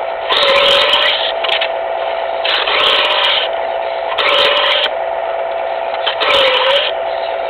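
Smith's electric knife sharpener's motor running with a steady hum while a Buck knife blade is drawn through its grinding slot about four times, each pull a grinding rasp that briefly drags the motor's pitch down as the blade loads it.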